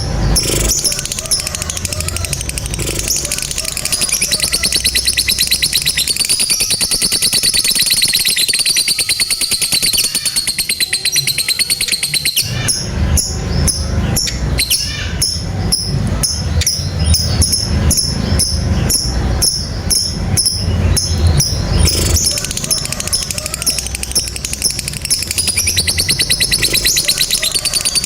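Lovebirds giving the long, rapid chattering trill that keepers call 'ngekek panjang': a fast, continuous run of short high notes, the kind of lovebird song played to train other birds to sing.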